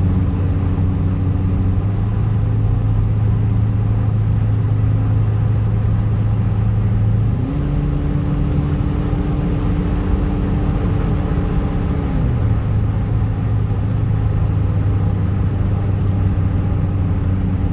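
Subaru car engine running with a steady drone that holds a low note; about seven seconds in the pitch glides up to a higher note, held for about four seconds, then falls back to the first note.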